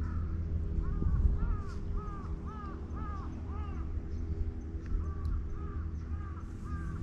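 A bird calling in two runs of short, arching calls, about two a second, with a pause of about a second between the runs, over a steady low hum.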